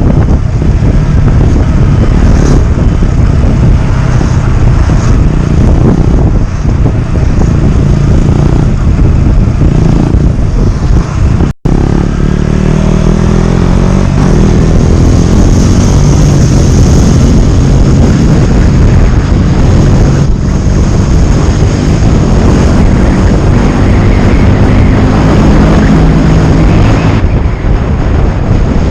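KTM Duke 125's single-cylinder engine running loud through a GPR exhaust with the dB killer removed, its pitch rising and falling as it revs. The sound cuts out for an instant about a third of the way in.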